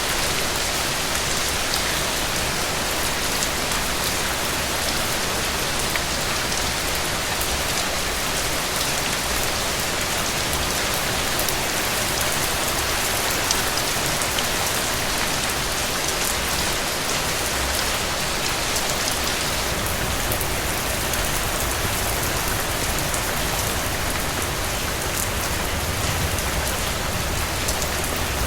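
Steady rain falling on a cabin roof, an even hiss with scattered drops ticking through it.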